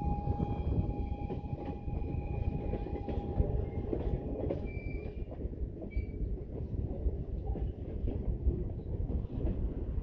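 Passenger coaches of a train rolling past on old, rough track: a steady rumble of steel wheels on rail with small clicks and knocks. A thin, steady squeal sounds over it and stops about halfway through.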